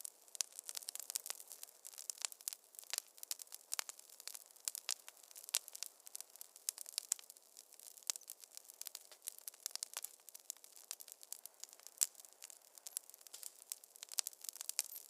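Wood fire crackling in a fireplace: dense, irregular sharp pops and snaps over a soft hiss, with no low rumble.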